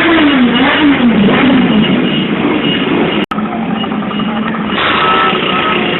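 Motorcycle engine revving, its pitch rising and falling twice, over loud background noise, with a brief break about three seconds in.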